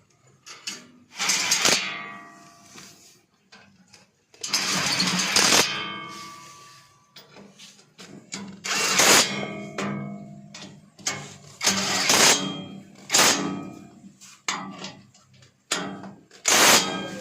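A power tool run in about seven short bursts with pauses between them, driving in the bolts of the engine's steel under-cover plate.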